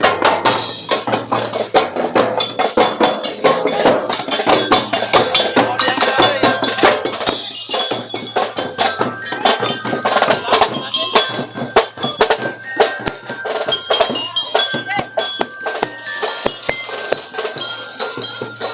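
Street-dance percussion band playing a fast, dense drumbeat, with held tones over it.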